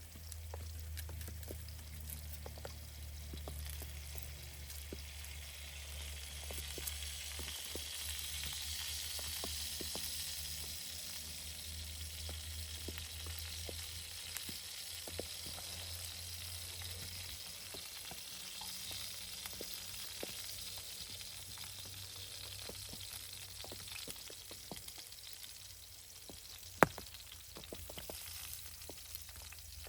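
Food frying and sizzling in a pan, a steady hiss with small crackles. A low hum underneath stops about halfway through, and a single sharp click comes near the end.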